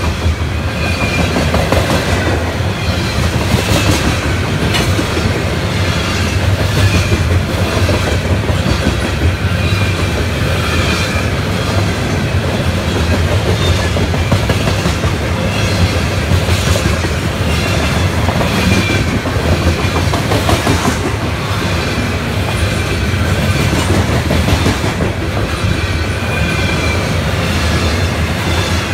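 Steel coal cars of a freight train rolling past close by: a steady rumble of wheels on rail, with a clickety-clack each time a set of wheels crosses a rail joint. Short high squeaks come and go throughout.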